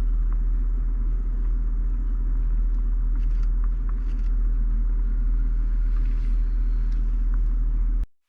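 Steady low rumble of a car heard from inside the cabin, with a few faint ticks; it cuts off suddenly near the end.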